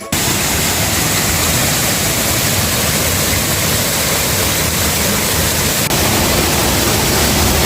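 Roaring water of a waterfall: a loud, steady rush that starts and cuts off abruptly.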